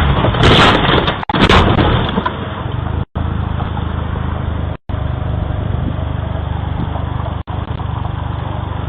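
Dashcam audio of a vehicle on the road: steady road and engine noise with a low hum. The first two seconds are louder and rougher, and the sound cuts out abruptly a few times.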